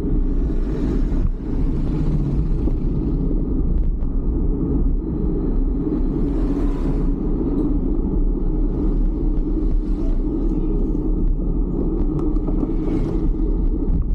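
Steady low rumble of wind and road noise on the camera's microphone while riding a fixed-gear bicycle through traffic, with brief hissing swells about a second in, around seven seconds and near the end.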